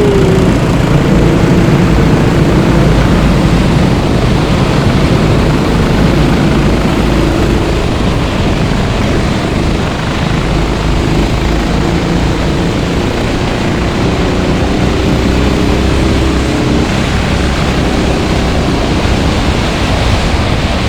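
Several go-kart engines droning together over a steady hiss, their tones drifting in pitch as karts come and go around the wet track.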